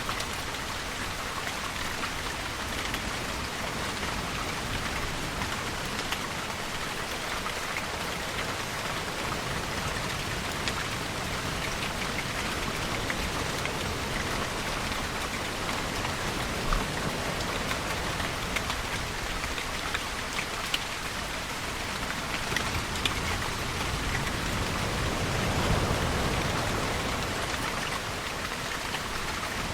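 Steady rainfall with scattered drops ticking on a hard surface. A low swell rises and fades near the end.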